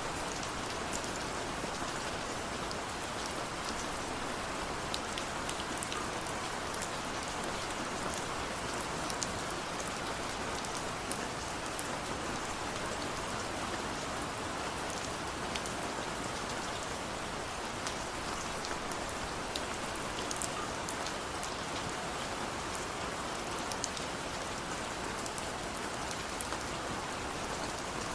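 Steady rain falling, a continuous even hiss with many small drop ticks scattered through it.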